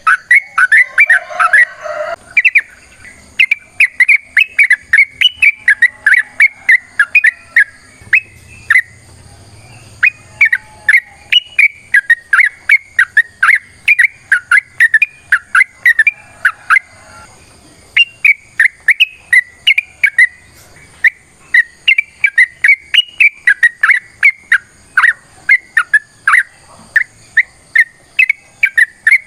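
Yellow-vented bulbul (trucukan) singing a long, rapid-fire chattering song of short whistled notes, in several runs broken by brief pauses.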